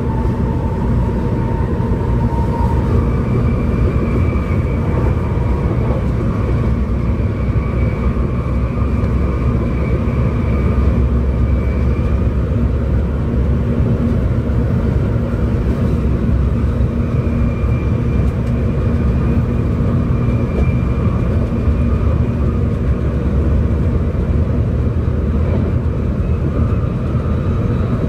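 Cabin noise inside a 700 Series Shinkansen travelling at speed: a steady low rumble of wheels and rushing air, with faint high tones that come and go.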